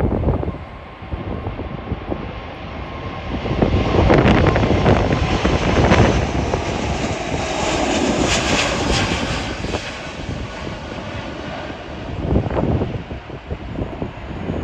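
Airliner taking off: the engine roar swells about four seconds in, holds strong for several seconds, then eases off. Gusty wind buffets the microphone underneath with irregular low rumbles.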